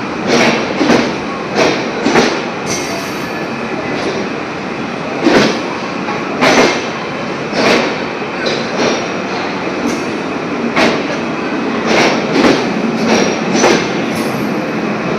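Humsafar Express passenger train running, its wheels clacking over rail joints: sharp knocks every second or so, some in close pairs, over a steady running rumble.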